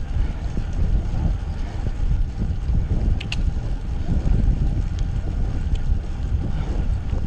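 Wind buffeting the microphone of a camera carried on a moving bicycle, a steady low rumble, with one brief high squeak about three seconds in.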